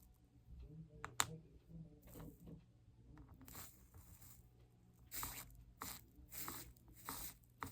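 Small work-table handling sounds during stained glass soldering: a single sharp click about a second in, then a run of short scraping, rustling strokes in the second half.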